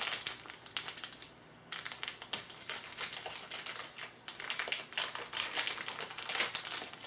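Trading card pack wrapper and cards being handled: rapid crinkling and small clicks, with a brief pause about a second in.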